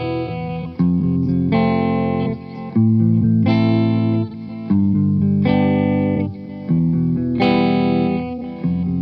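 Guitar music: strummed chords that change about once a second, each starting sharply and ringing on, with a slightly distorted, effects-coloured tone.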